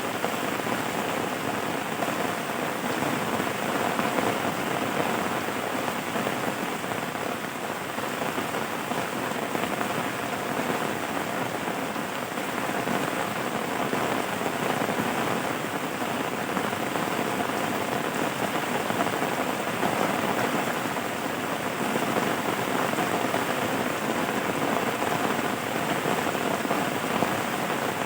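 Steady rain falling, a dense patter of many small drops on a surface with no let-up.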